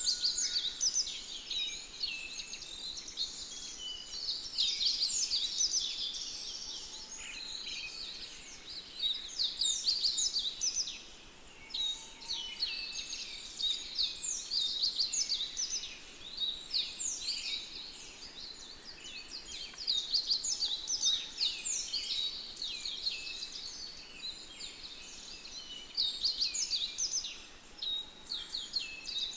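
A dense chorus of many small birds chirping and singing, with short quick notes overlapping continuously and swelling and easing every few seconds.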